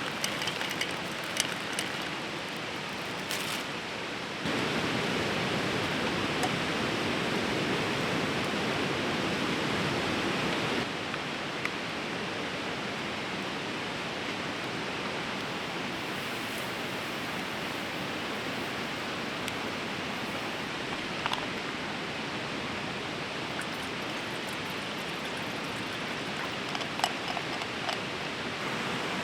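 A fast river rushing steadily, louder for several seconds from about four seconds in, with a few sharp clicks over it.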